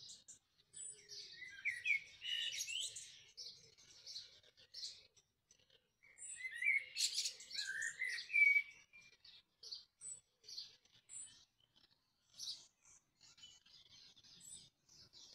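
Small birds chirping and singing, in two busier spells of quick, sliding high notes with scattered single chirps between.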